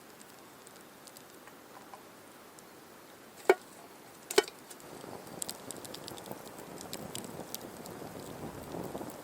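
Two sharp knocks, then a small campfire starting up: a rising hiss with many quick crackles and pops as the wood catches.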